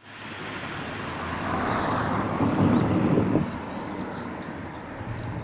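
A vehicle passes by, its noise swelling to a peak about three seconds in and then falling away, with faint bird chirps above it.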